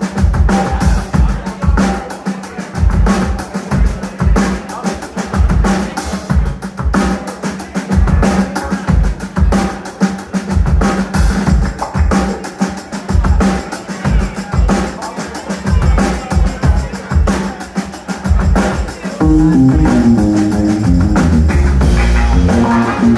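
Live band music led by drums and percussion: two drum kits and hand percussion playing a busy groove of kick, snare and rimshot hits. About 19 seconds in, the rest of the band comes in with sustained bass and other pitched instrument lines, and the music gets fuller and louder.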